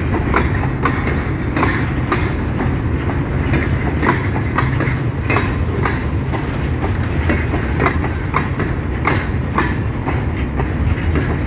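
Empty freight train's grain hopper wagons rolling past close by: a steady low rumble with repeated sharp clacks as the wheels cross rail joints.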